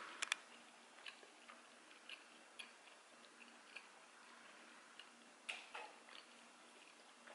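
Quiet, close-up chewing of sticky kiri mochi rice cakes, heard as soft, irregular wet mouth clicks. Two sharper clicks come just after the start.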